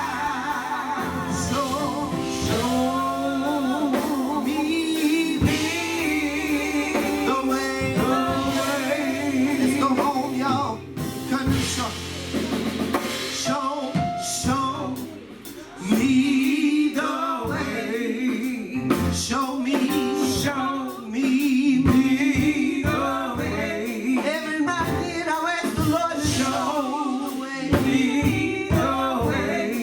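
Live gospel singing with a male lead voice over a band with guitar and drum kit, the music dropping away briefly about halfway through.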